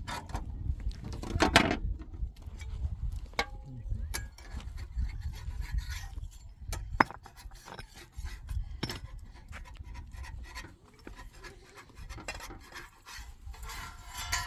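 Irregular knocks, clicks and rubbing, like wood being handled, over a continuous low rumble, with a sharper knock about 7 seconds in.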